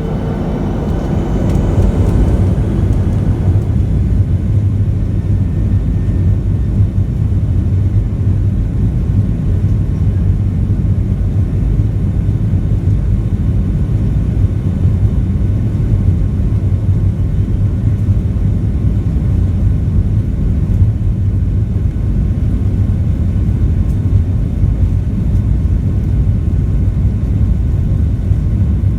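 Boeing 737 cabin noise: the steady low rumble of the engines and airflow, heard from inside the cabin. In the first few seconds a faint rising whine and some fading tones sit over the rumble.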